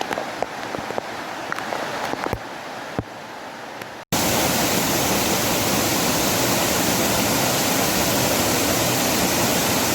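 Rushing waterfall water with a few sharp knocks over it. About four seconds in it cuts abruptly to a louder, steady rush of falling water.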